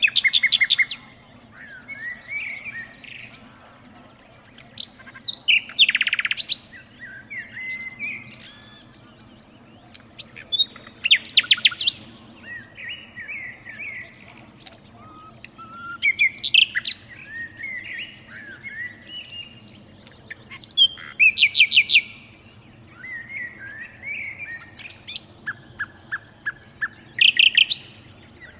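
A bird singing: loud bursts of rapid, repeated notes come about every five seconds, with softer chirps in between. Near the end a longer run of repeated notes lasts about three seconds.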